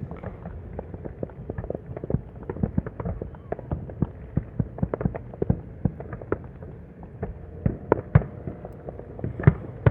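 Distant fireworks bursting: many sharp bangs and pops at irregular intervals over a steady low rumble, with the loudest bangs near the end.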